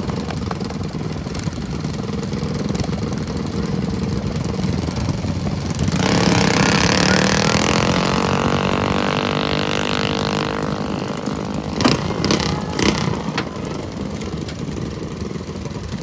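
Minibike engine running hard: it turns loud about six seconds in, and its pitch slowly falls over the next few seconds as it fades. A few short sharp sounds follow near the end.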